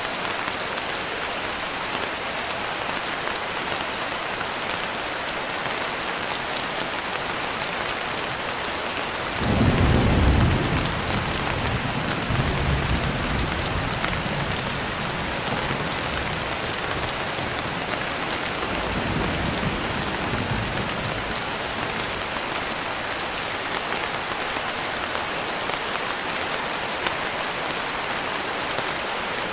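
Steady, heavy rain with a roll of thunder about a third of the way in. The thunder is loudest at its start, then rumbles on in weaker swells for some ten seconds before fading back under the rain.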